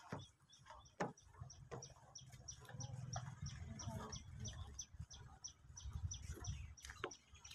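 A bird calling a steady series of short high chirps, about three or four a second, over a low rumble, with a couple of sharp clicks near the start.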